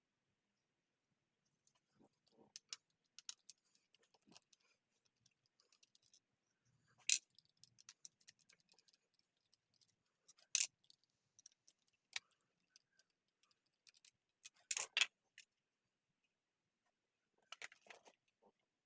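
Sparse sharp clicks and light clinks of small hard parts and tools being handled, with long quiet gaps between them; the loudest come about seven, ten and fifteen seconds in.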